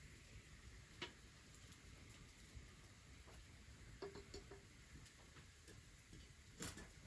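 Near quiet, broken by a few faint, sharp clicks and taps: one about a second in, a small cluster around four seconds in, and a stronger one near the end.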